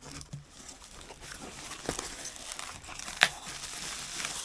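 Packaging being handled and unwrapped: continuous crinkling and tearing, with one sharp snap about three seconds in.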